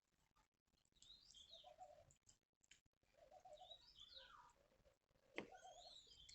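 Faint bird calls in the background: a few short chirps that come in three groups, with a lower warbling note under them.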